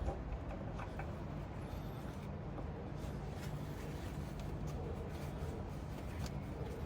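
A steady low background hum with a few faint light clicks, like small tool or parts handling.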